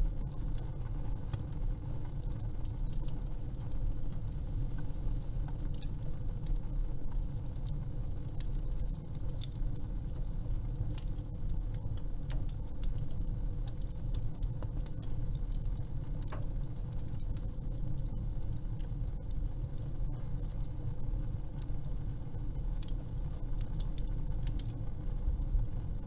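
Wood fire burning: frequent sharp crackles and pops, scattered unevenly, over a steady low rumble.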